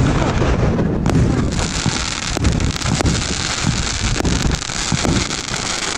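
A 1.3G firework display cake firing a string of shots. Sharp bangs come at irregular intervals over a continuous crackle and low rumble.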